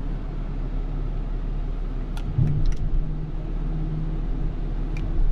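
Tow truck engine idling steadily under a low rumble, with a few short metallic clinks about two seconds in and again near the end.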